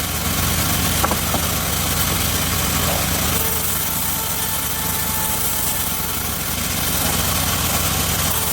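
The engine driving a homemade circular-saw rig runs at a steady idle-like speed, with no change in load, and gives a short click about a second in.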